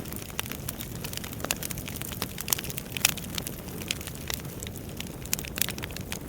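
Wood fire burning in a fireplace: a steady low rumble of flames with irregular sharp crackles and pops from the burning logs, one louder pop about three seconds in.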